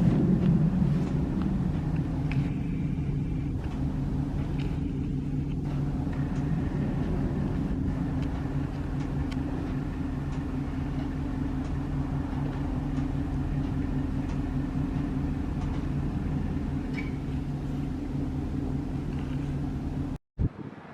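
Diesel locomotive engine running steadily, a low even hum, cut off abruptly near the end.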